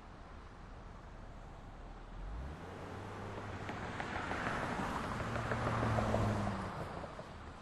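A motor vehicle passing along a city street over a steady background of traffic noise: its engine hum builds from about two and a half seconds in, is loudest about six seconds in, then fades.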